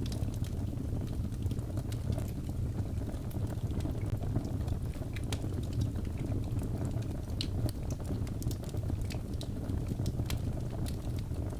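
Wood logs burning in a fireplace: a steady low rumble of flames with irregular sharp crackles and pops from the burning wood.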